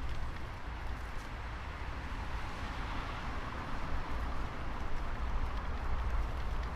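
Wind buffeting the microphone during a bicycle ride in the rain, over a steady hiss of tyres on wet pavement. The low rumble swells and eases.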